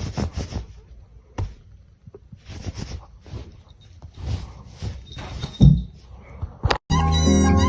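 Irregular knocks and short scuffling noises, then music starts suddenly near the end.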